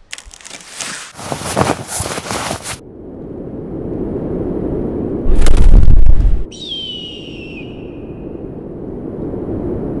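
Hook-and-loop patch being pulled apart, a crackling rip lasting about three seconds. A low rumble then builds into a deep boom, the loudest sound, about five seconds in, followed by a long falling whistle.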